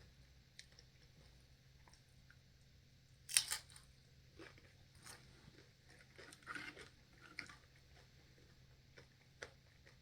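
A bite into crisp fried corn tortilla, a loud cluster of crunches about three seconds in, followed by softer crunching chews at intervals.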